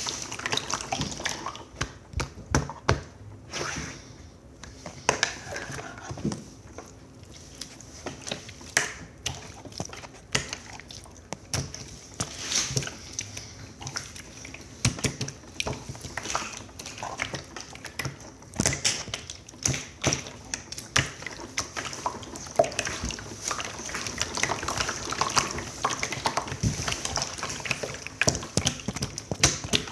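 Hands squeezing, stretching and folding slime, making irregular squishy clicks and pops.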